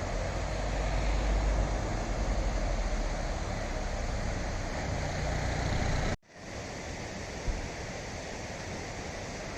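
Small roadside waterfall rushing as a steady, even noise, with wind buffeting the microphone for the first six or so seconds. The sound cuts out briefly about six seconds in, then the water noise carries on without the low buffeting.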